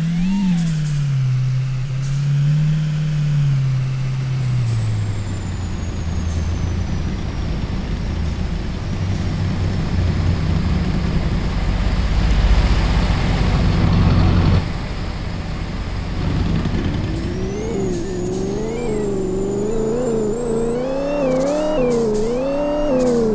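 Truck engine running while driving, its pitch dropping early on, then rising and falling repeatedly as the revs go up and down. A louder rushing noise builds in the middle and cuts off suddenly.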